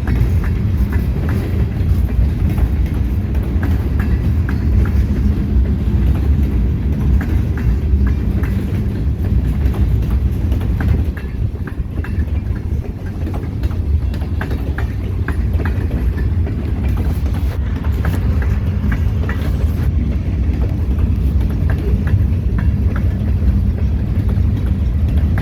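Freight cars rolling past: a steady, heavy rumble of steel wheels on rail with scattered faint clicks.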